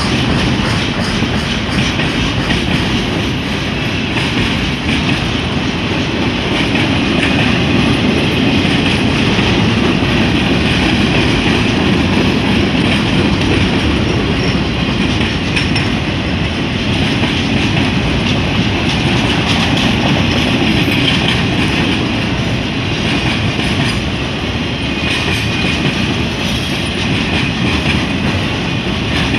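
Freight train boxcars rolling past close by: a steady, loud rumble and clatter of steel wheels on the rails, unbroken throughout.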